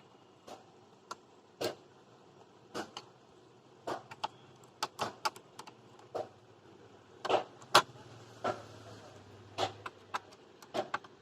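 Irregular sharp clicks and taps of screws and a screwdriver as the back-panel screws of an LED TV are put in, with a faint low hum under most of it.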